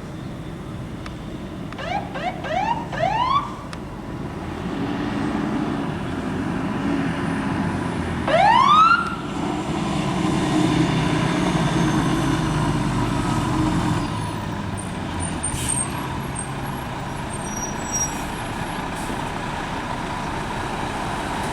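Fire truck siren giving three short rising whoops about two seconds in, then one longer, louder rising whoop about eight seconds in, over the steady rumble of the truck's diesel engine pulling past.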